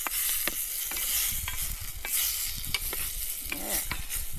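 Beef chunks searing in a hot pan, sizzling steadily, with frequent sharp clicks of metal against the pan as they are stirred and turned.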